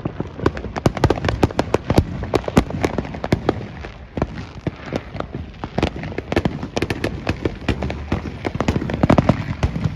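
Fireworks going off in many overlapping irregular bangs and crackling pops, several a second, growing denser near the end.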